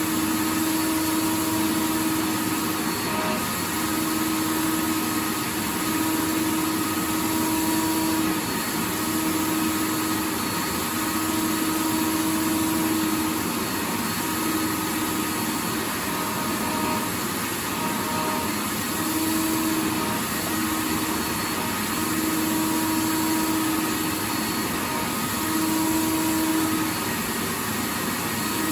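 Vacuum cleaner running steadily: an even whooshing hiss, with a hum that drops out and returns every second or two.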